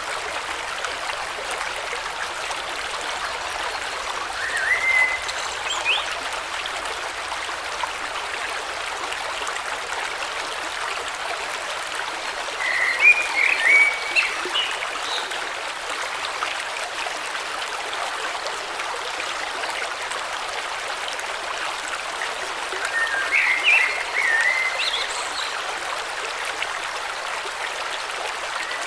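Steady rushing and trickling of a flowing river or stream, with a songbird singing three short warbling phrases about ten seconds apart.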